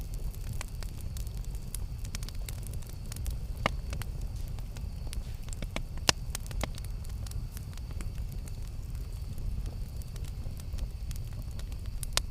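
Campfire burning: a steady low rumble with constant crackling, and a few sharper pops about four and six seconds in.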